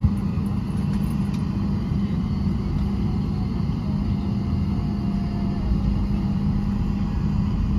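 Steady cabin noise inside a Boeing 737-800: a constant low rumble with a droning hum from the jet engines and cabin air system.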